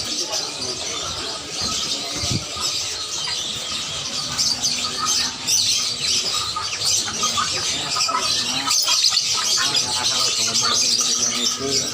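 Many caged birds chirping and squawking at once, a dense, steady chorus of overlapping high calls.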